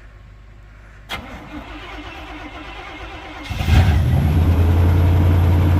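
A vehicle engine starting. A click about a second in, then a couple of seconds of cranking before the engine catches with a burst and settles into a steady idle.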